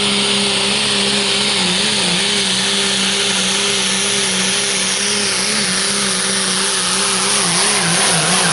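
Turbocharged pro stock diesel pickup truck running flat out on a pull, its engine holding a steady high pitch that wobbles a little near the end.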